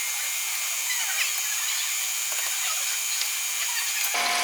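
A steady high-pitched mechanical whine over a constant hiss, like a small motor running, cutting off abruptly near the end.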